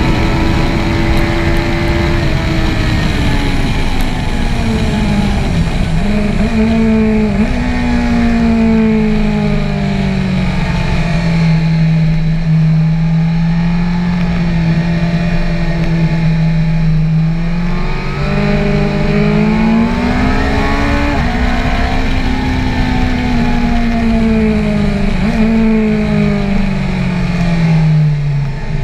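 BMW S1000R's 999 cc inline-four engine heard from the rider's seat over steady wind rush. Its note falls over the first several seconds with two short upward jumps, holds steady at a lower pitch for several seconds, climbs again, then falls away toward the end.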